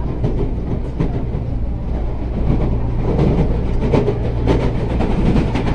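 CPTM Série 8500 electric commuter train running on the line, heard from inside the carriage: a steady low rumble with quick clicks and clatter of the wheels over the rail joints. The clatter grows busier about halfway through.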